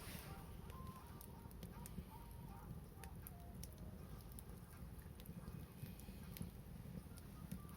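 Wood fire crackling faintly, with scattered sharp pops over a steady low rumble.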